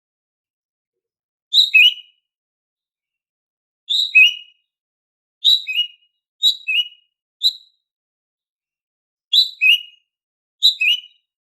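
Female cucak ijo (green leafbird) giving its everyday call: short clear two-note calls, a higher note dropping to a lower one, repeated about seven times with pauses between. One call near the middle has only the single high note.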